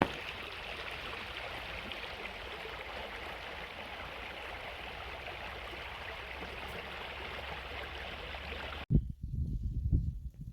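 Steady rushing of flowing water, like a stream, that cuts off abruptly about nine seconds in, followed by a few low, irregular thumps.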